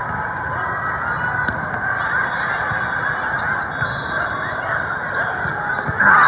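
Steady din of a large indoor crowd at a volleyball tournament, many voices overlapping. A louder burst of cheering breaks out just before the end.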